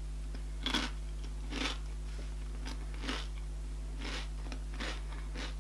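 A person chewing a crunchy chip topped with barbecue sauce: irregular crunches about once a second, over a steady low hum.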